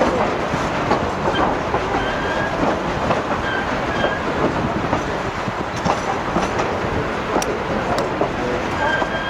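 Narrow-gauge railway coach rolling steadily along the track, a continuous rumble with the wheels clicking over the rails.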